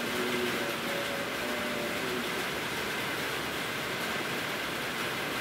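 Steady rain, an even hiss of falling water that holds level throughout.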